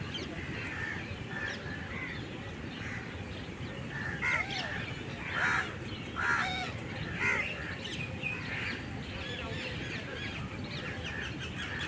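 Several birds calling and chirping over a steady low background rumble, with four louder harsh calls about a second apart near the middle.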